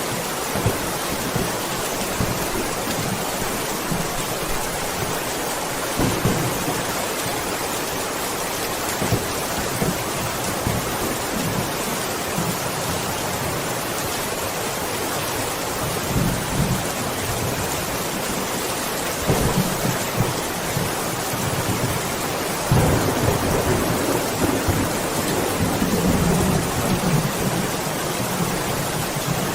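Steady heavy rain with thunder rumbling at intervals, the longest and loudest roll starting a little over twenty seconds in.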